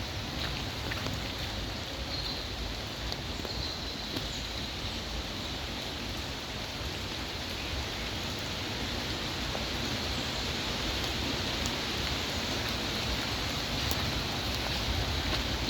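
Steady rain falling, an even hiss with a few sharp drop ticks scattered through it, getting slightly louder in the second half.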